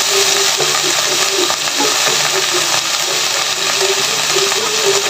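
Yard-long beans and chicken sizzling in hot oil in a frying pan, a steady frying hiss.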